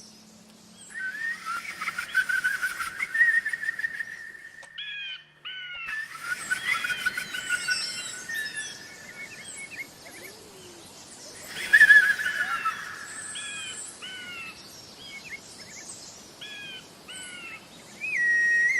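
Birdsong: many short repeated chirps and trills, with a brief dropout about five seconds in. A steady whistling tone comes in near the end.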